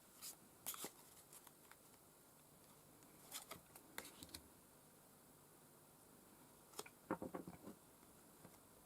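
Faint, brief rustles and taps of tarot cards being handled and laid out, coming in a few short clusters over near silence.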